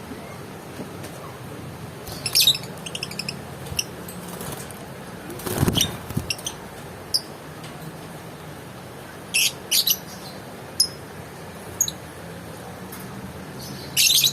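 Pet lovebird giving short, sharp high-pitched chirps at irregular intervals, some in quick clusters of two or three, over a steady low hum. Near the middle, one chirp cluster comes with a brief lower thump or rustle.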